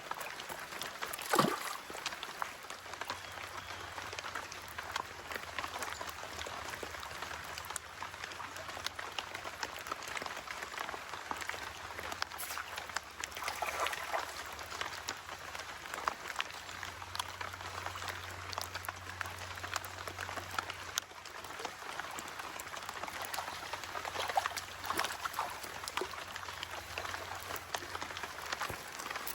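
Steady rain falling: an even hiss full of small drop ticks, with a few louder swishes, the first about a second in.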